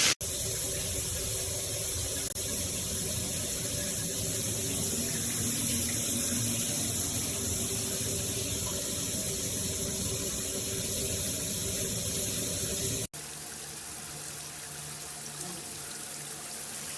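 Water pouring steadily from a 12-inch square rain shower head. The sound drops out briefly twice, near the start and about thirteen seconds in, and is a little quieter after the second break.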